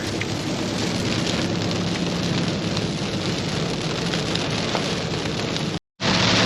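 Heavy rain falling steadily on a moving pickup truck, with a low steady drone of engine and road underneath. The sound cuts out briefly near the end and comes back with the rain louder.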